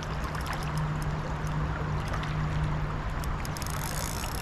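Steady rush of flowing river water, with a constant low hum underneath and a brief higher hiss near the end.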